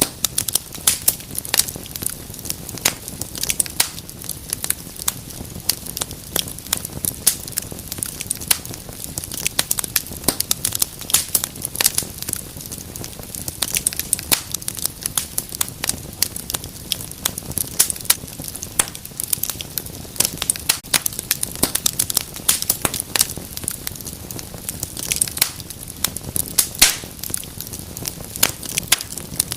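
Wood fire burning in a fireplace, crackling and popping with many irregular sharp snaps over a low steady hiss.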